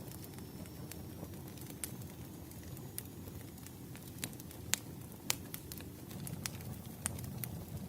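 Wood fire burning: a steady low rumble of flames with irregular sharp crackles and pops from the burning logs, two louder pops about five seconds in.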